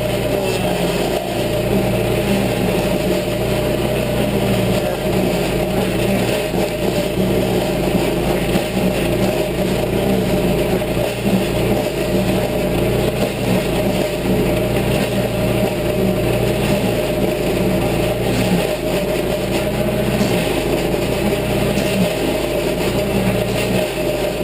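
Toro stump grinder's gasoline engine running steadily at speed while its cutter wheel grinds into a tree stump.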